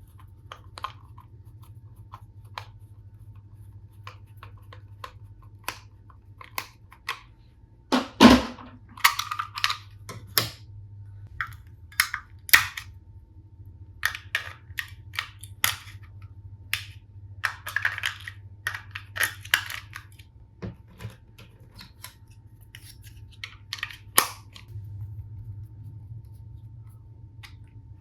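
Plastic toy tool pieces and packaging being handled: scattered sharp clicks and taps, with a louder knock about eight seconds in and short rustling stretches.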